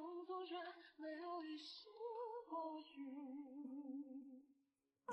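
Quiet background song: a woman's voice singing a slow melody with long held notes and vibrato, with little audible accompaniment. The singing stops near the end.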